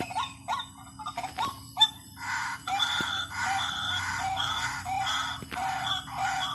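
White-breasted waterhen calls of the kind used to lure the birds: short rising notes repeated about twice a second, turning about two seconds in into a louder, steady run of harsh calls at the same pace. A faint steady hum runs underneath.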